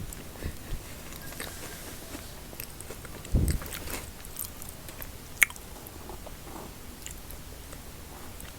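Close-miked mukbang eating sounds: quiet chewing of chocolate snacks, with a short low thump about three and a half seconds in and a sharp click about two seconds later.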